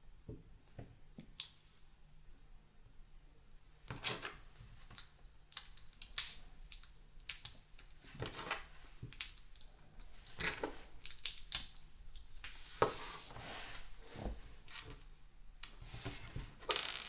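Plastic LEGO pieces being handled and pressed together: irregular small clicks, rattles and brief scrapes, with more of them after the first few seconds.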